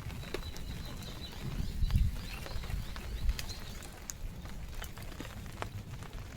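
Wind rumbling on the microphone, with scattered light ticks and faint high bird calls.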